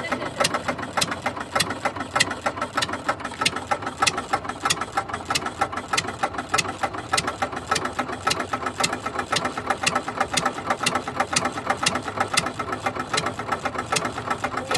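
Replica of Henry Ford's 1893 single-cylinder engine running steadily, at about 475 RPM: a rapid, even clatter of sharp clicks over a steady hum.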